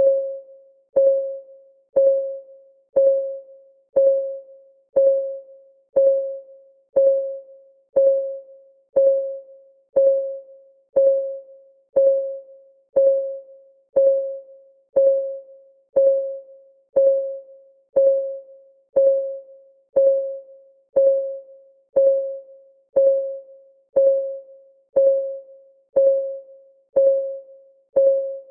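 Countdown timer's clock-ticking sound: a steady tick once a second, each a short pitched tock that dies away quickly.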